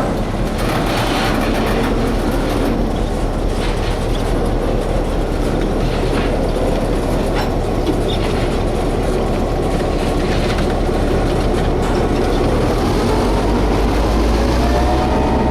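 EMD GP9 diesel-electric locomotive running as it moves railroad cars, its engine's low drone under the rumble and scattered clicks of wheels on rail joints. The engine drone grows louder near the end.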